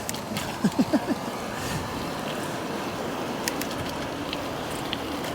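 Wind rushing over the microphone, with tyre and road noise from an e-bike ridden fast. About a second in there is a brief cluster of short pitched sounds.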